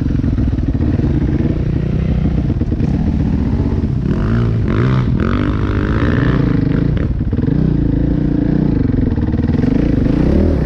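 Dirtbike engine running under way, its pitch rising and falling as the throttle is worked. A brief rush of noise comes in about four to five seconds in.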